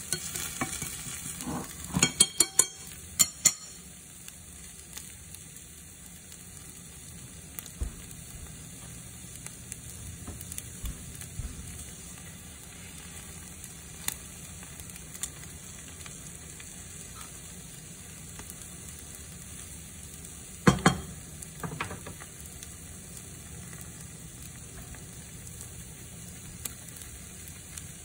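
Egg and sliced potatoes frying in a pan: a steady sizzle throughout. A few sharp clicks come about two seconds in, and there is a single loud knock at about twenty-one seconds.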